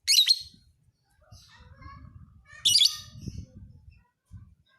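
Lovebird chirping: two loud, shrill calls, one right at the start and one about two and a half seconds in, with softer twitters between.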